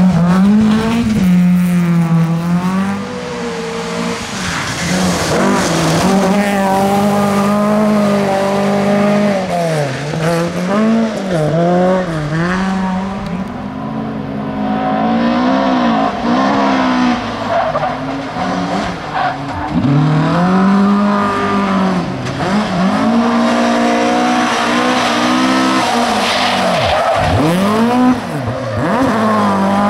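Volvo 740 rally car's engine revving hard, its pitch repeatedly climbing and then dropping back as the driver shifts gears and lifts off the throttle.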